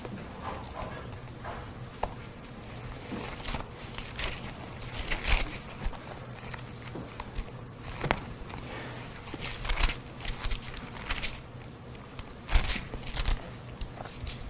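Thin Bible pages rustling and flicking as they are leafed through, in short scattered swishes with a few light clicks, over a faint low steady hum.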